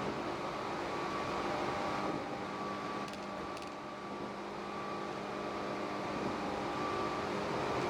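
Tobu 8000 series electric train running, a steady hum with faint held tones over an even running rumble that eases slightly about halfway through.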